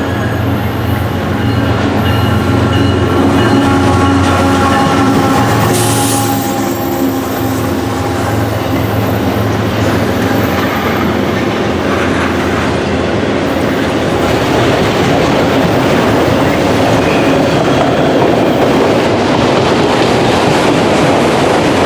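A train passing loudly. For about the first half a steady engine drone is heard, then it gives way to the rumble and clickety-clack of the cars rolling over the rails.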